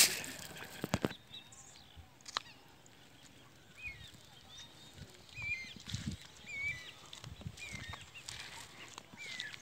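Birds calling: short, rising-and-falling chirps repeated every second or so, with a few sharp knocks in the first second and soft low thumps in the middle.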